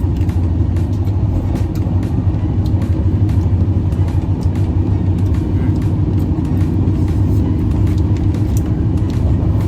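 Steady low rumble of a moving passenger train heard from inside the coach, with faint scattered clicks over it.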